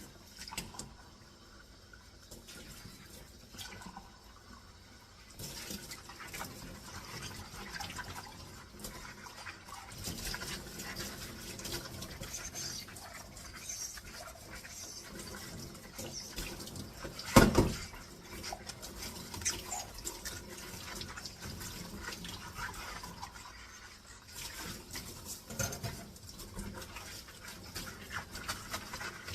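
Dishes being washed at a sink: water splashing and scrubbing, with small clinks of dishware. It is quieter for the first few seconds, then busier, with one loud clatter of a dish a little past halfway.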